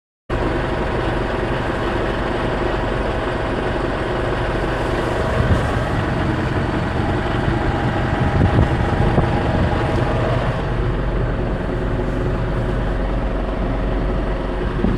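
Tractor engine running steadily, driving a Dan-Agri Auto Wrap 514 twin-satellite bale wrapper as it turns round, wrapping a bale.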